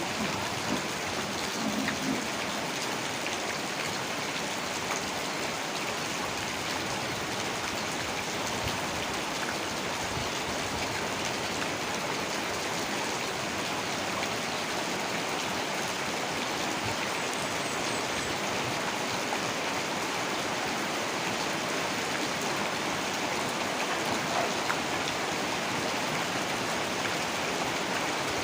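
Heavy rain falling steadily, a dense even hiss of drops hitting the ground and nearby surfaces, with the odd louder drop.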